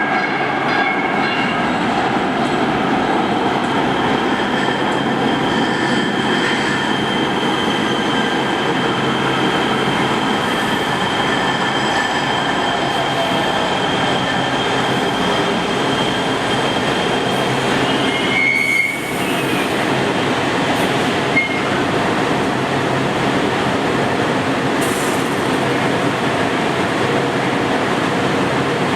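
Los Angeles Metro Rail train running in an underground station: a steady rumble of wheels on rail with a thin, high wheel squeal over it, and a brief dip in the noise about two-thirds of the way through.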